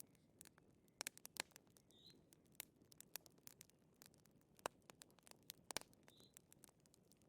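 Wood fire crackling: irregular sharp pops and ticks of varying loudness over a soft low hiss.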